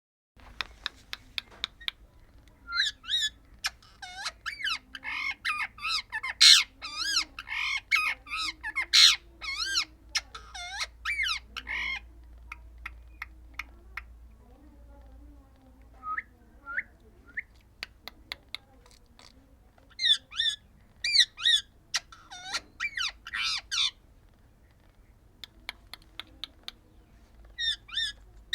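Female parrot squawking and chattering in bursts of short, rapid calls. There is a lull with a few chirps in the middle, and a run of sharp clicks near the end.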